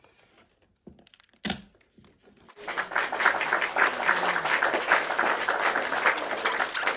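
Wrapper of a toy surprise egg being torn and crinkled open: a single sharp click about one and a half seconds in, then dense crackling from a little before the midpoint on.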